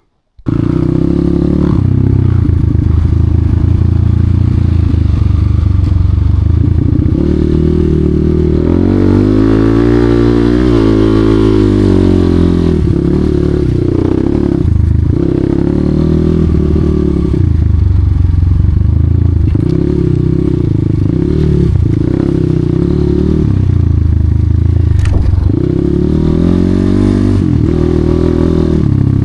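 Enduro dirt bike engine under load off-road, its revs rising and falling again and again as the throttle is worked. Scattered clattering knocks are heard over it.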